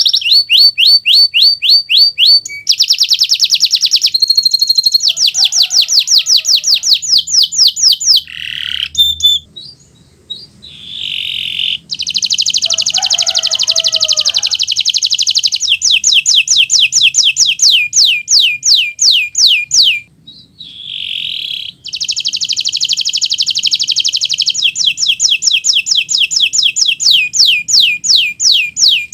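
Kenari Nusantara canary singing loudly in long, fast trills of rapidly repeated sweeping notes, switching from one trill to the next. The song breaks off briefly about ten seconds in and again about twenty seconds in.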